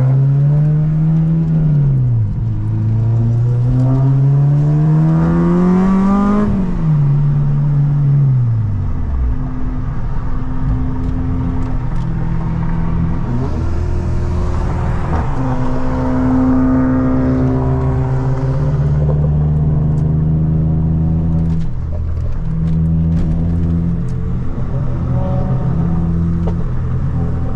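Car engine revving up through a gear for a few seconds and then easing off, followed by a steady cruising hum.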